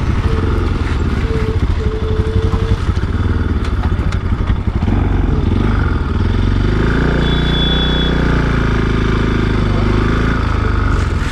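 Motorcycle engine running while riding. In the second half the engine note rises and falls back.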